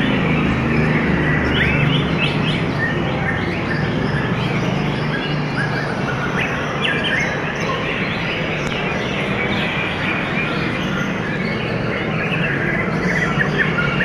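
Songbirds chirping in many quick, short notes over a steady low background rumble.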